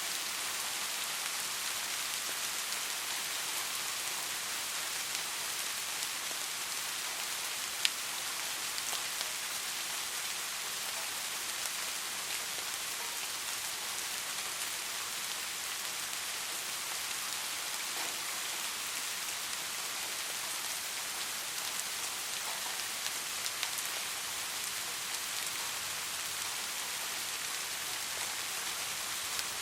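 Steady rain falling and pattering on a surface, with the odd sharper drip, one a little louder about eight seconds in.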